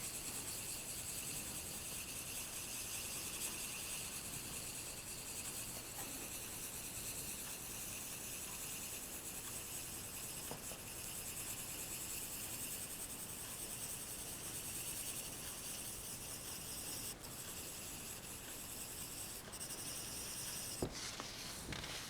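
Steady high-pitched trilling of insects such as crickets, breaking off briefly twice and stopping shortly before the end, followed by a few small clicks.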